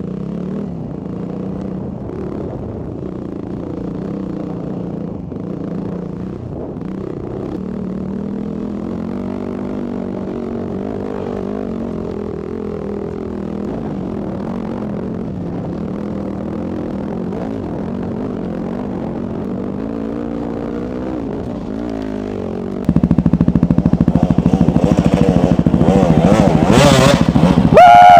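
Dirt bike engine running on a trail ride, its pitch rising and falling with the throttle. About 23 seconds in, the sound jumps abruptly to a much louder, harsher engine note.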